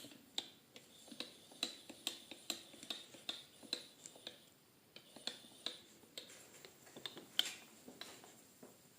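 Faint, quick metallic clicks from milling-machine work, about two or three a second, with a short break about four and a half seconds in.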